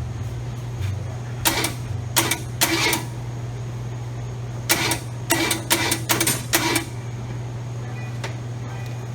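Two clusters of short metallic rattling bursts, about three seconds apart, over a steady low hum.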